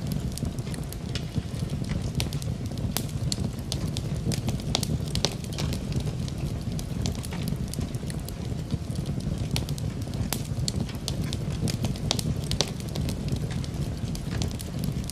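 Wood fire crackling in a fireplace, irregular sharp snaps and pops several times a second, over a steady rush of rain.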